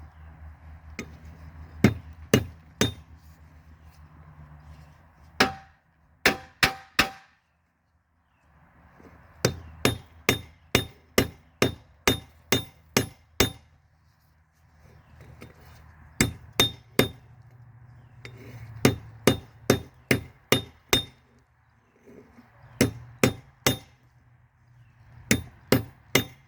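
Hammer striking a steel railroad spike on an anvil, forging it into a kukri blade. The blows come in bursts of several ringing strikes, about two a second, with short pauses between, over a steady low hum.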